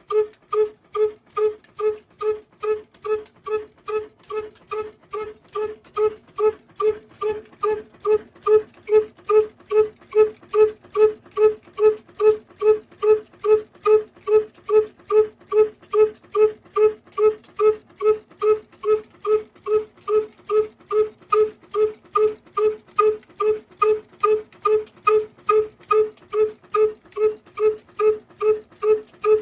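Slow-running diesel engine, its exhaust beats coming about twice a second, each a short pitched pop. The beats grow louder about 8 seconds in and then stay even.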